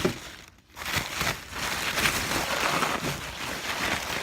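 Packaging wrapping crinkling as it is pulled and torn open by hand. The crinkling starts about a second in and keeps going.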